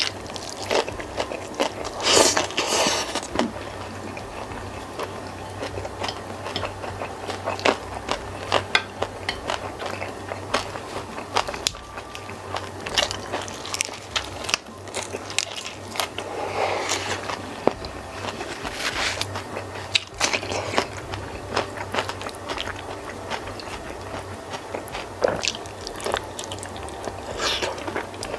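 Close-miked eating by hand: chewing, crisp crunchy bites and many short wet clicks as mouthfuls of rice, raw leafy greens and cuttlefish in sambal are eaten. Louder bites come about two seconds in, around the middle and near the end.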